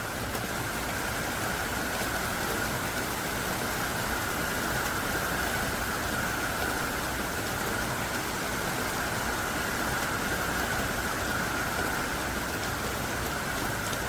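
Heavy, steady downpour of rain: an even, unbroken hiss of thick, forceful rain with occasional faint drop ticks.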